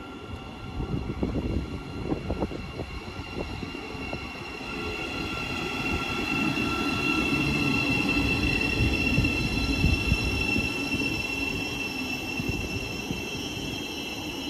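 Thameslink Class 700 Desiro City electric multiple unit pulling into the platform and braking, its rumble growing louder, with a high, steady squeal that is strongest as it slows.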